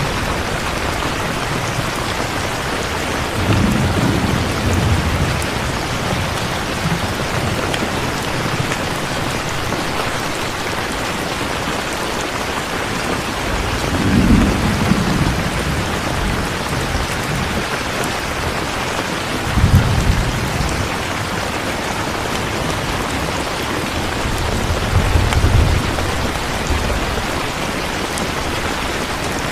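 Steady heavy rain falling, with low rolls of thunder rumbling four times: about four seconds in, midway, around twenty seconds, and near the end.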